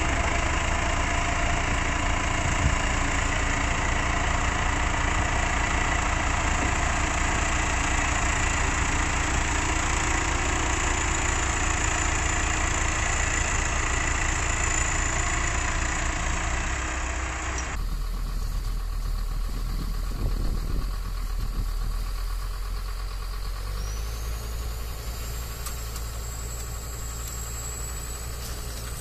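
A vehicle engine running steadily. About two-thirds of the way through the sound changes abruptly to a quieter, duller engine, and near the end a faint high whine rises and then holds.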